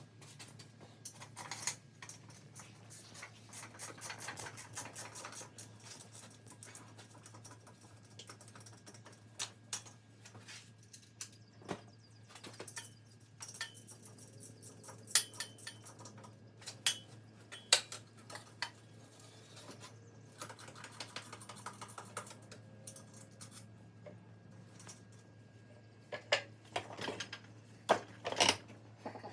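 Hand tools and metal parts clicking, clinking and knocking while motorcycle parts are handled, with short runs of rapid clicking, over a steady low hum.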